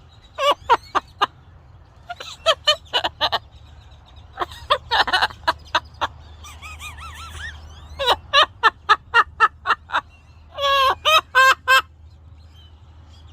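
Pet parrot calling loudly in quick series of short, sharp, pitched notes with a brief warble in the middle, its singing-like vocalising.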